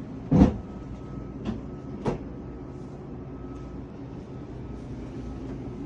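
A loud thump, then two lighter knocks over the next second and a half, over a steady machinery hum with a faint high tone.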